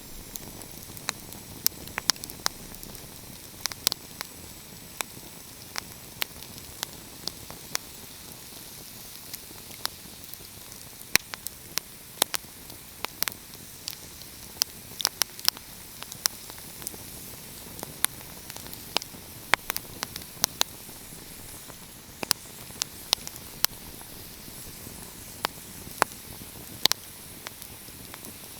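Wood fire crackling: irregular sharp pops and snaps, sometimes several in quick succession, over a steady hiss.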